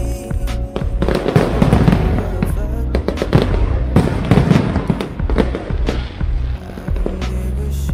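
Fireworks display with many bangs going off in quick, irregular succession, over loud background music with a heavy bass.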